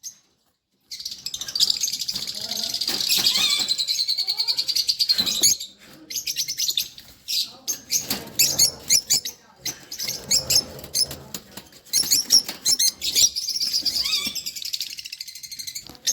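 A group of lovebirds chirping and chattering in rapid, high-pitched bursts after about a second of silence.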